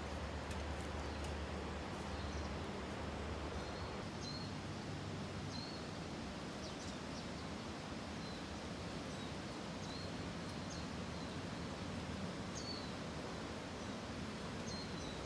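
Outdoor ambience: small birds give brief high chirps every second or two over a steady hiss of background noise. A low rumble sits under it for the first few seconds.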